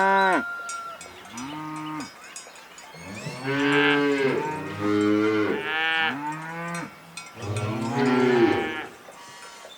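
Cows mooing: a string of about five drawn-out moos, each rising and then falling in pitch, with short gaps between them.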